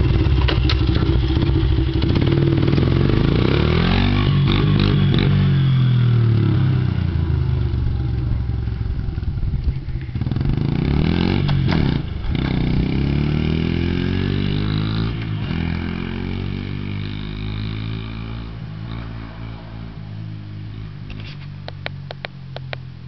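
A 2002 Honda XR70R dirt bike's small four-stroke single-cylinder engine running and being revved, its pitch rising and falling again and again with throttle and gear changes. It grows steadily fainter over the last several seconds as the bike rides off, with a few sharp clicks near the end.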